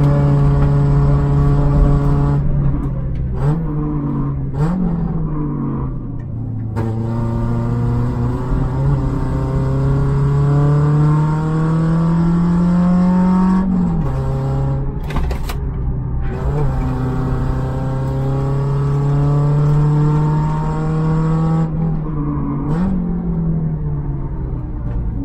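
Peugeot 106 Sport's 1.4-litre eight-valve four-cylinder engine, heard from inside the cabin, driven hard on track. The revs climb steadily through a long pull and drop sharply at an upshift about 14 seconds in. A few seconds in and again near the end, the revs fall with short sharp rises, as on downshifts with throttle blips.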